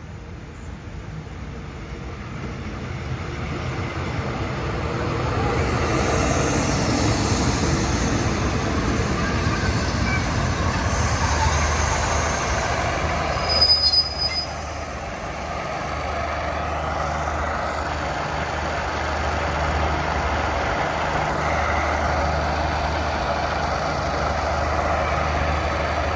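Diesel-hauled passenger train coming into the station. The rumble of the locomotive and coaches grows louder over the first few seconds, and a brief high squeal comes about 14 seconds in. After that the locomotive's engine drone holds steady.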